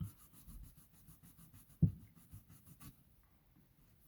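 Cloth rubbing a shoe's surface in quick, even back-and-forth strokes while cleaning it, with a single knock a little before the rubbing stops about three seconds in.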